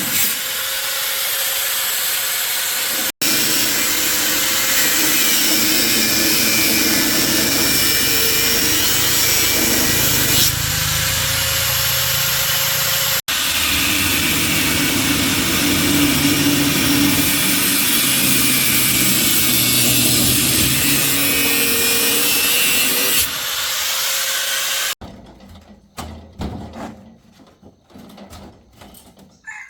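A power tool running steadily under load with a loud abrasive noise, with two momentary breaks. It stops about 25 seconds in, leaving quieter scattered ticks and knocks of hand work.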